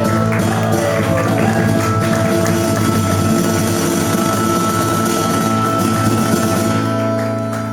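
Live band music without vocals: guitar playing with steady held chords, the level sagging slightly near the end.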